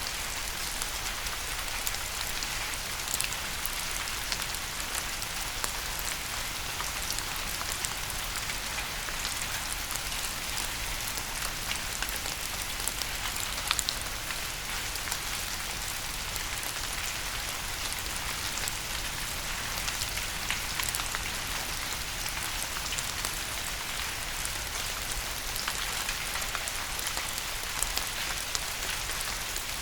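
Steady rain falling on a surface, with a constant hiss and many small individual drop taps scattered through it.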